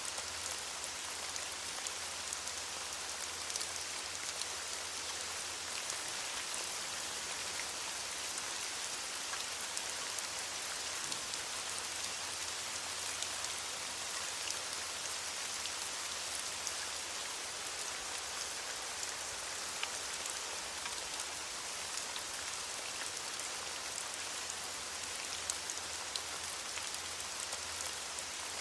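Steady rain falling on leaves: an even hiss with many small, scattered drop ticks.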